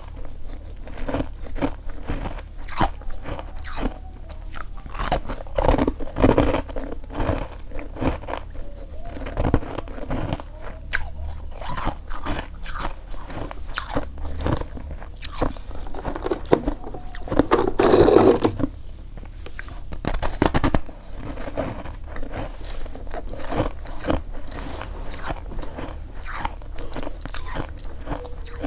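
Freezer frost being bitten and chewed, with many quick irregular crunches. A louder, denser stretch of crunching comes about two-thirds of the way through.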